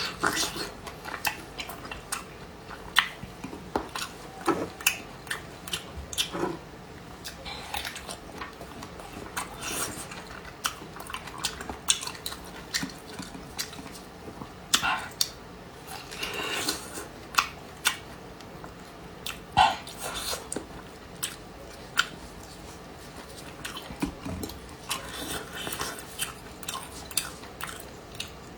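Close-miked chewing and mouth sounds of someone eating cured pork, with irregular sharp clicks and smacks.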